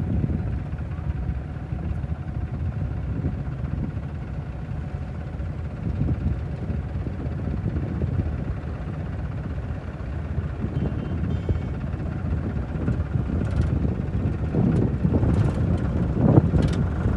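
Powertrac 47 tractor's diesel engine running steadily with a low rumble.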